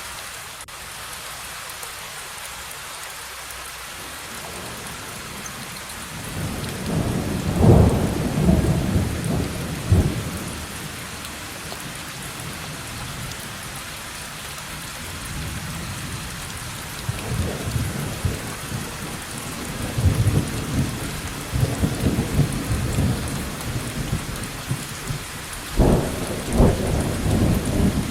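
Steady rain falling through a thunderstorm, with rolling thunder rumbling in several waves: a long rumble starting about a quarter of the way in, another drawn-out spell of rumbles from about two thirds through, and a sharper, louder clap near the end.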